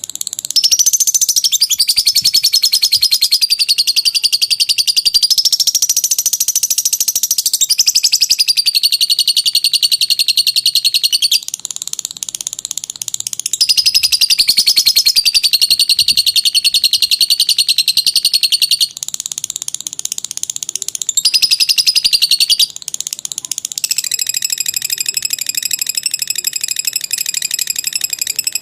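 Lovebird ngekek: a long, rapid, high-pitched chattering trill sung in runs of several seconds. It breaks off briefly a few times, and the last stretch is a softer, denser chatter.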